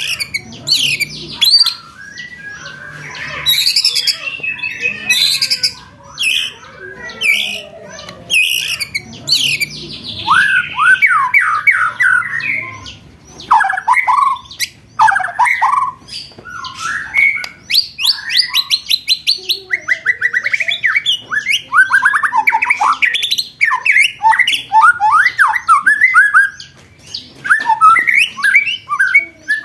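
Recorded songbird song played as training material: a nonstop run of fast rattling trills and quickly repeated sweeping whistled notes. Harsh, scratchy chattering dominates the first few seconds before the trills take over.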